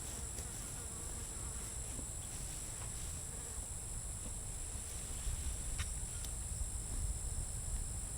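Steady high-pitched drone of an insect chorus, with a low rumble underneath and two faint clicks about six seconds in.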